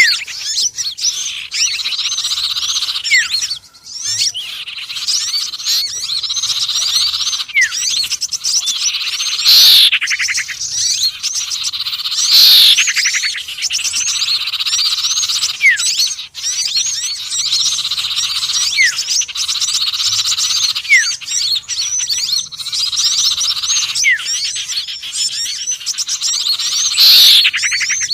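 Bird-lure recording mixing the calls of small songbirds known to bird keepers as sirtu, konin and sepah raja: a dense, continuous chatter of high chirps and trills. Short rising whistled notes come every few seconds, and three loud falling squeaky sweeps stand out above the chatter.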